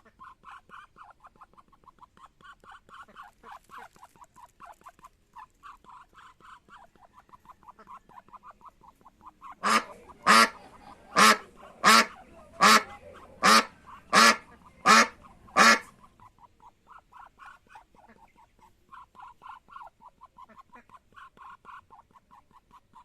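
Ducks quacking. A quick, steady run of soft, low-key quacks is broken in the middle by about nine loud quacks in an even row, roughly one every 0.7 seconds. Then the soft chattering quacks resume.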